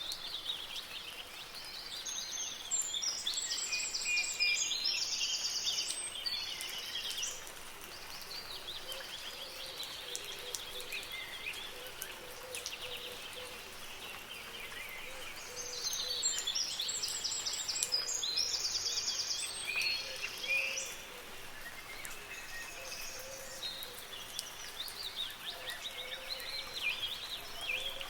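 Songbirds singing over a steady hiss of soft rain: two long spells of rapid, high-pitched trilled song, a couple of seconds in and again about midway, with fainter chirps between.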